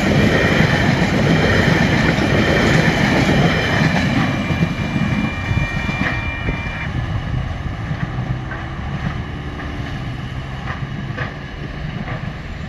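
Empty container flat wagons rolling along the rails, with a high steady squeal from the wheels that cuts off about seven seconds in. The rumble fades as the end of the train draws away, leaving a few faint clicks.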